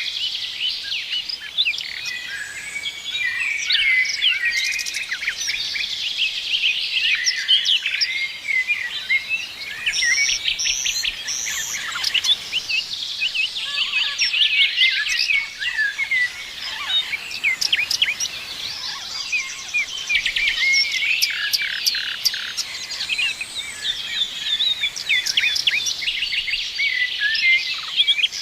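A chorus of many small songbirds chirping and trilling at once, a dense overlapping stream of quick high chirps with no pause.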